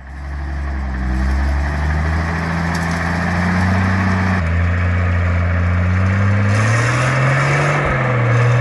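Star 660 truck's engine running steadily, its pitch climbing slowly. It changes abruptly about four and a half seconds in, and rises again near the end.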